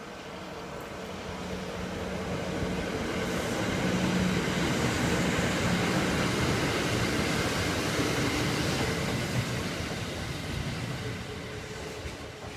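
Kintetsu 2013 series electric train running through a station without stopping. Its running noise and a low hum build as it approaches, are loudest for several seconds as the cars pass close by, then fade as it moves away.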